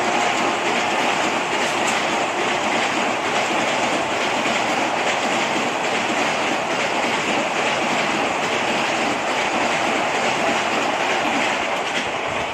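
Vande Bharat Express electric train running along the track: a steady rush of wheels on rail and air, with no horn.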